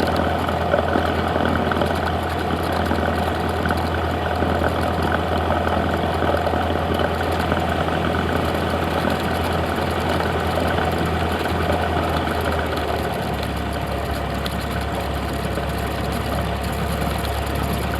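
Steady drone of a Cessna 172's piston engine and propeller, heard from inside the cabin. Its low note drops slightly about thirteen seconds in.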